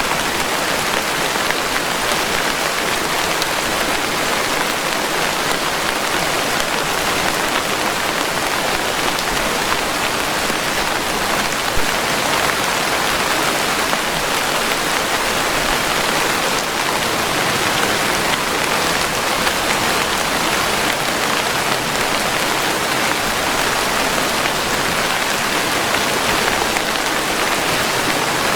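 Steady, even rainfall, a dense hiss of raindrops with no thunder.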